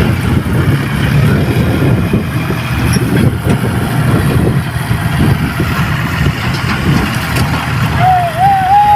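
John Deere 5045 D tractor's three-cylinder diesel engine running steadily, with voices over it and a wavering high tone near the end.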